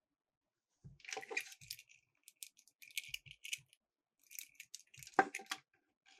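Miniature toy cars clattering and rattling as they roll down a plastic track in irregular bursts of clicks, with one sharp knock about five seconds in.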